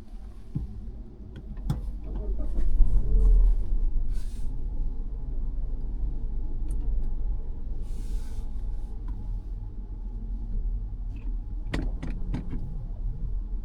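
Low engine and tyre rumble heard inside the cabin of a 2022 Mazda 3 moving off slowly, swelling about two to four seconds in. A few sharp clicks come about two seconds in and again near the end, and there are two short hisses.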